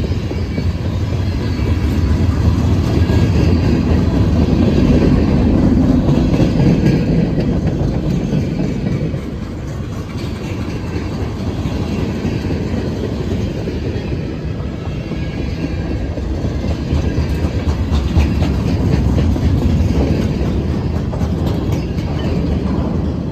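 Freight train rolling past: a steady low rumble of cars, with repeated clicks from the wheels.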